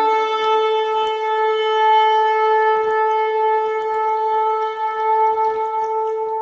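Ram's-horn shofar blown in one long, steady held note with many overtones.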